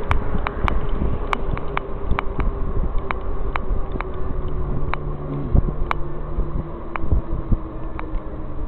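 Electric bike riding along: a steady motor whine under rushing wind on the microphone, with frequent short sharp clicks and rattles.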